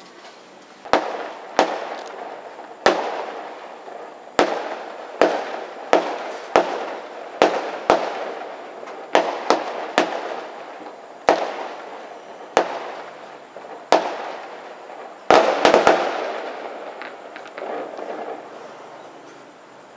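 Fireworks exploding: a string of sharp, gunshot-like bangs about one to two seconds apart, each trailing off in echo. About three-quarters of the way through comes a quick cluster of several bangs, and then the sound dies away.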